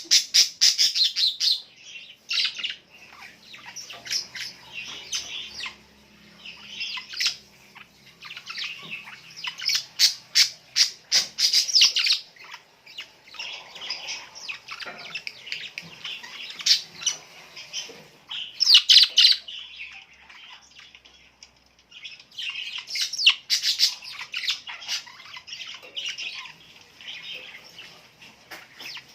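Small birds chirping and calling in quick runs of short notes, with several birds sounding together and louder flurries now and then.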